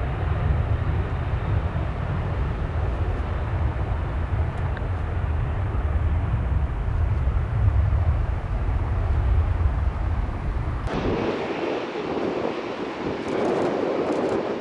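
Jet airliner engines rumbling steadily with heavy low-end noise, with wind buffeting the microphone; about eleven seconds in the sound cuts abruptly to a thinner, higher noise without the deep rumble.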